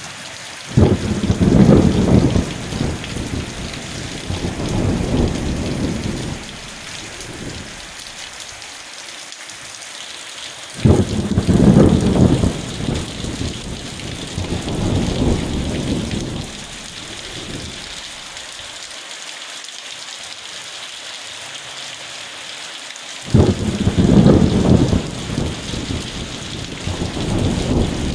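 Steady rain falling, with three peals of thunder. Each begins suddenly and rumbles on for several seconds: about a second in, about eleven seconds in, and about twenty-three seconds in.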